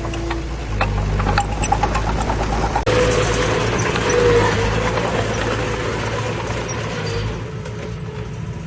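Heavy diesel engine of earthmoving machinery running steadily, with a few sharp clanks in the first two seconds. From about three to seven seconds in, a broad rushing noise is heard over the engine.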